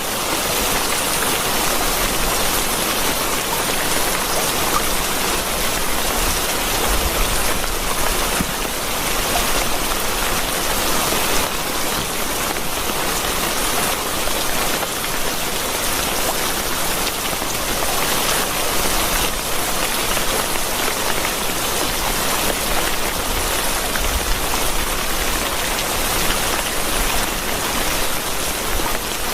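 Steady rain falling on a surface: an even, unbroken hiss of many raindrops.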